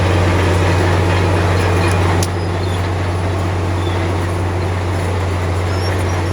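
Heavy diesel engine of earthmoving machinery running with a steady deep drone. About two seconds in a sharp click comes, and the sound drops a little quieter after it.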